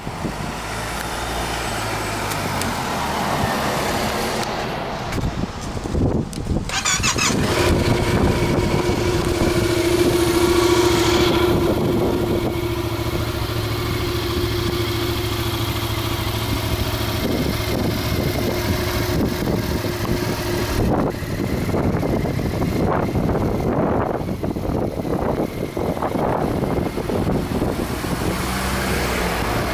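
Yamaha XSR700's 689 cc crossplane parallel-twin engine idling steadily.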